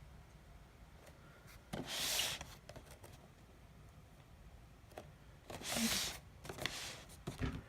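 Soft crinkling rustle of a cellophane-wrapped firecracker roll being handled, in two short bursts about two and six seconds in, with a few light taps in between.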